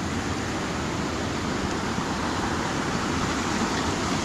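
A hill stream in spate after heavy rain, rushing with a steady noise that grows slowly louder.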